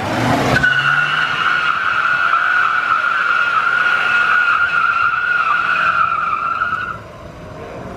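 Car tyres squealing in a burnout: one steady high squeal that holds for about six seconds after a short rush at the start, then stops about seven seconds in.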